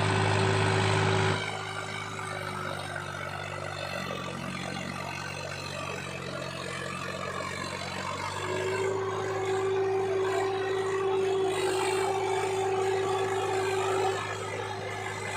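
Tractor diesel engine running steadily while hauling a load of sugarcane. It is louder for the first second or so, and its note strengthens about halfway through.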